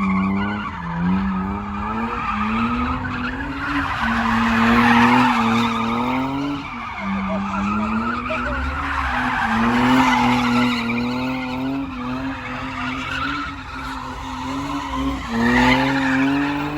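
Car engine revving in repeated rising surges that fall back again and again, with tires spinning and skidding as the car is swung around in donuts or a drift.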